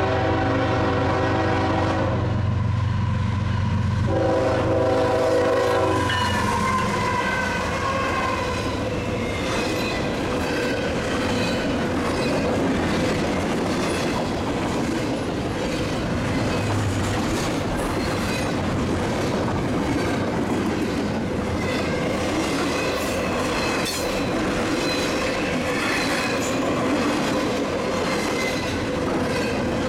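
Union Pacific diesel locomotive's air horn sounding over its engine rumble, breaking off about two seconds in and blowing again until about six seconds in. Then a long double-stack container train rolls steadily past, its wheels clickety-clacking on the track.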